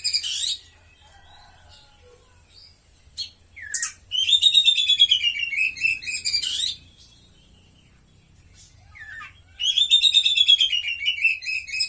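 Oriental magpie-robin (kacer) singing: three-second phrases of rapid, high, repeated notes, one ending just after the start, one about four seconds in and one near the end, with a few short single calls between them. The song carries mimicked cililin phrases.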